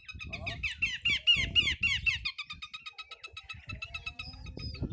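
Campeor songbird singing: a fast run of sharp, down-slurred whistled notes for about two seconds, then a rapid, even ticking trill, over a low rumble.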